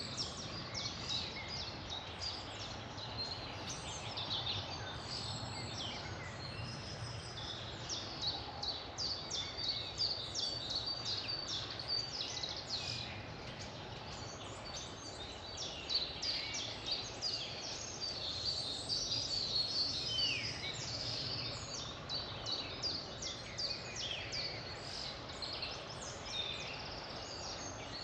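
Several songbirds singing and chirping at once, a dense chorus of short high calls and trills that never stops, over a steady low background noise.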